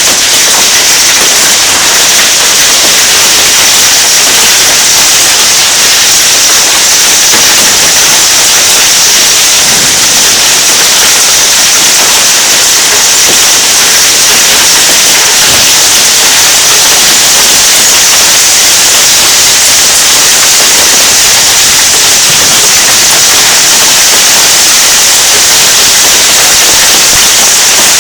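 Hail and heavy rain from a thunderstorm pelting down: a loud, steady, dense hiss of countless small impacts.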